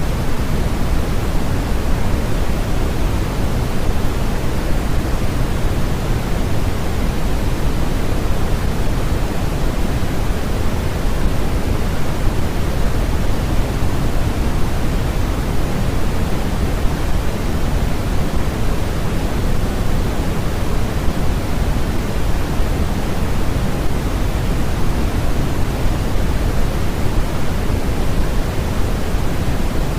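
Steady synthetic noise played as a sleep and focus track, heavier in the low end than in the highs, so closer to pink noise than to flat white noise. It stays even, with no changes or events.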